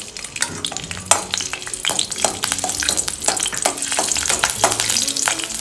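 Garlic cloves and green chilli pieces sizzling in hot oil in a steel pan, stirred with a spatula, with many sharp crackles and clicks over a steady hiss.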